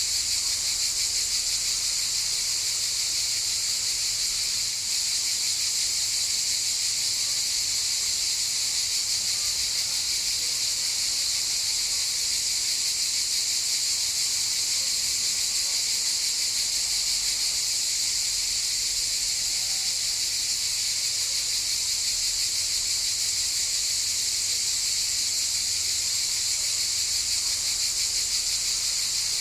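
Chorus of cicadas buzzing in a steady, unbroken high-pitched drone.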